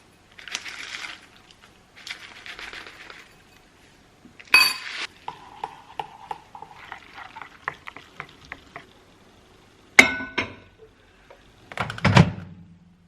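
Kitchen handling sounds: soft hissing pours, then dishes and glassware set down and clinking with a ringing note, small cutlery taps, and two sharper knocks near the end.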